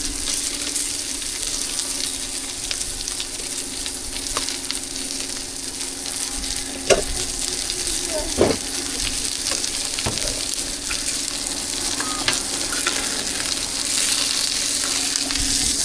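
Food frying in hot oil in a pan, a steady sizzle, with a few short knocks of a utensil against the pan around the middle and a steady low hum underneath.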